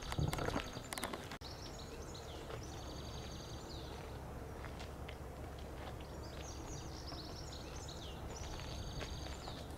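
Small birds chirping outdoors, in repeated short falling calls that come in bursts, over a steady low background rumble. A few knocks and clicks sound in the first second.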